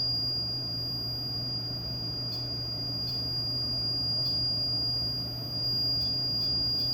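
REM pod (paranormal EMF proximity detector) alarm sounding a steady, unbroken high-pitched tone, over a low background hum.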